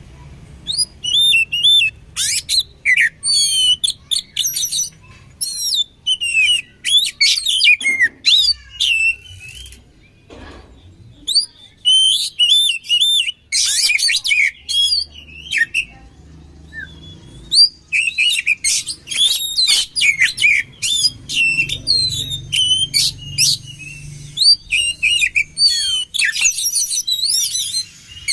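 Oriental magpie-robin (kacer) singing: fast, varied runs of whistles, trills and chattering notes, pausing briefly a couple of times, over a faint low hum.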